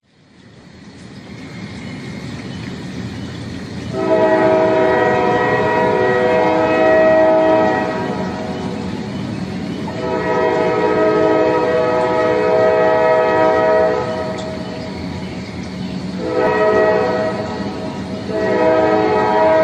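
Rumble of an approaching train fading in, then its multi-tone air horn sounding long, long, short, long: the standard grade-crossing signal.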